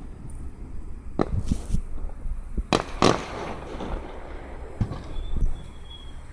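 Fireworks bursting: several sharp bangs with crackle between them, the loudest two close together about three seconds in.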